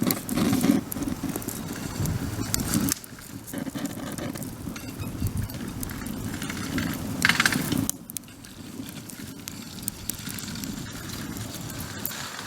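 Wood campfire crackling, with scattered sharp pops. A louder low rumbling noise covers the first two-thirds and stops suddenly about eight seconds in, leaving the quieter crackle.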